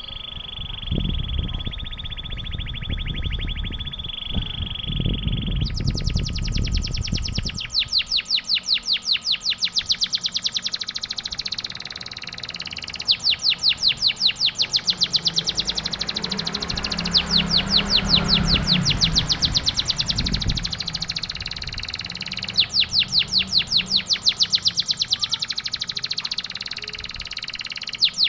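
Domestic canary singing a long song of fast, evenly repeated chirps. The trill changes its note pattern every few seconds. There is some low rumbling noise in the first several seconds.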